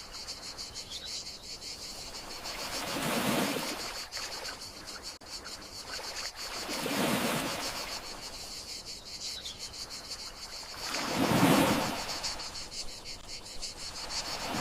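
Gentle sea waves washing ashore about every four seconds, each swelling and fading, the third the loudest, over a steady high trill of crickets.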